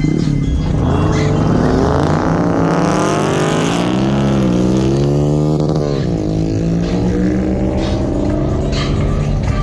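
Car engine running and being revved, its pitch rising and falling a few times.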